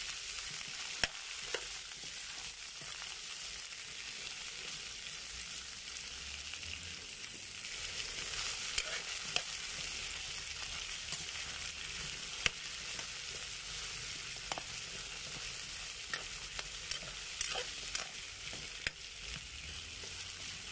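Squash cubes sizzling in hot oil in a metal wok while a metal spoon stirs them, with a steady frying hiss and scattered sharp clinks and scrapes of the spoon against the pan.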